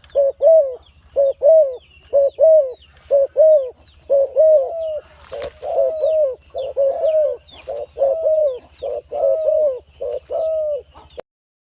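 Dove cooing: short two-note coos repeated about once a second, each note dropping in pitch at its end. The cooing cuts off suddenly near the end.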